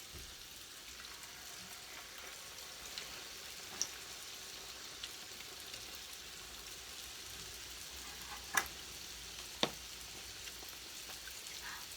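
Churros frying in hot oil in a frying pan: a steady sizzle, with a few short sharp clicks, mostly in the second half.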